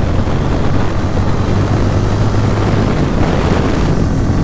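Bajaj Pulsar N160's single-cylinder engine pulling hard under acceleration, a steady loud engine drone, with wind rushing over the microphone.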